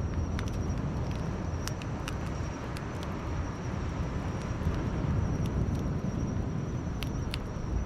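A steady low rumble with scattered sharp crackles and pops from a campfire, and a faint thin high tone above.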